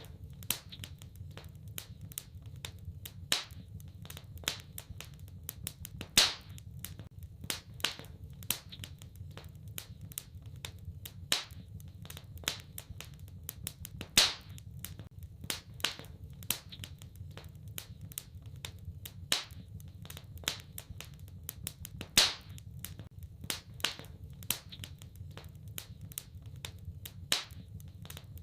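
Wood fire in a fireplace crackling, with irregular sharp snaps and pops, a few much louder ones every few seconds, over a steady low rumble.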